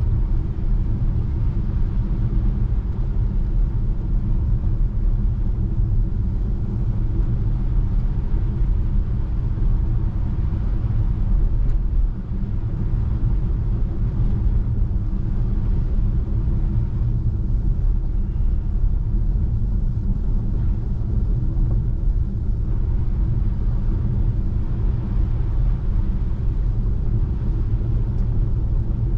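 Steady low rumble of tyre and road noise from an electric Tesla Model 3 driving on a snow-covered road.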